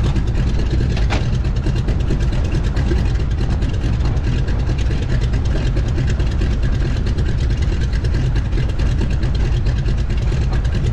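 North American SNJ (T-6 Texan) trainer's 600-horsepower Pratt & Whitney R-1340 Wasp nine-cylinder radial engine running steadily after start-up, a loud even throb with no change in speed.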